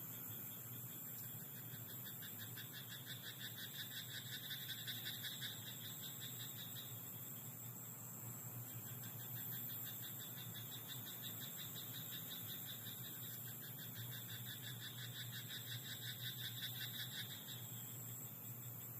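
Rice-paddy frogs croaking in two long trains of rapid, evenly pulsed calls. The first train ends about seven seconds in and the second starts a couple of seconds later, over a steady hiss.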